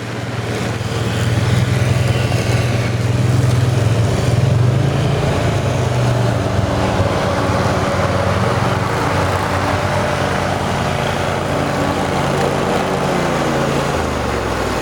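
A motor vehicle's engine running steadily. Near the end its pitch falls as it slows down.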